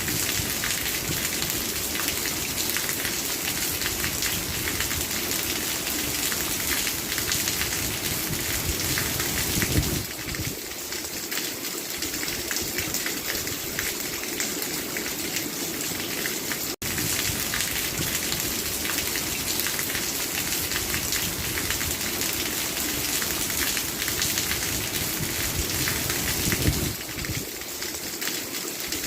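Steady rainfall, a dense patter of raindrops hitting a surface. The sound cuts out for an instant about seventeen seconds in, then carries on unchanged.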